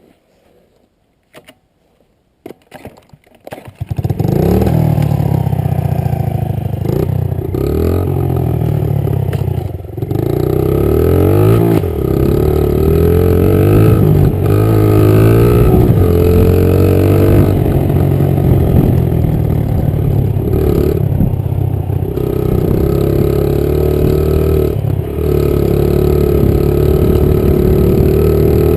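Honda 50 pit bike's small single-cylinder four-stroke engine starting about four seconds in after a few clicks. It then runs loud, revving up and falling back again and again as the bike is ridden.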